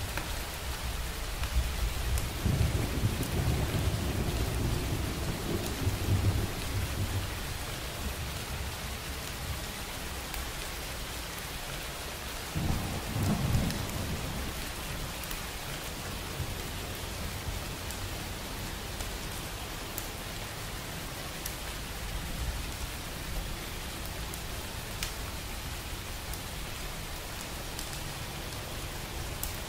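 Steady rain falling, with two low rolls of thunder: a longer one starting about two seconds in and a shorter one around the middle.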